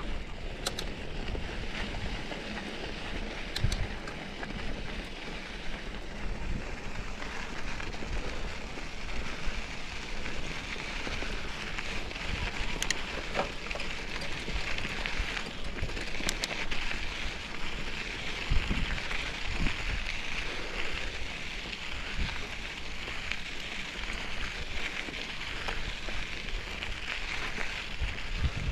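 Mountain bike rolling over a dirt trail: a steady crackle of tyres on loose gravel and dirt, with scattered sharp clicks and a few low knocks from the bike over bumps.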